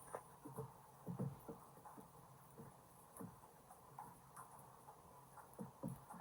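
Faint, irregular small clicks and taps, a few a second, from a small plastic toy being handled and worked on.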